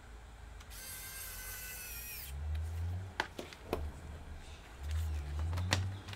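Small electric screwdriver whirring for about a second and a half, its whine falling away as it stops, followed by low rumbling and a few sharp clicks as screws are driven back into the laptop's case.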